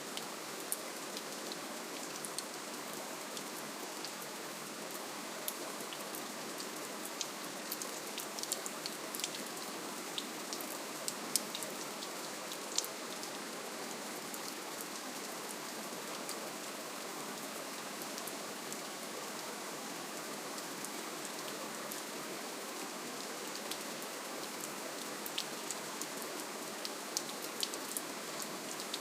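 Steady gentle rainfall: an even hiss of rain, with many individual drops ticking sharply on top.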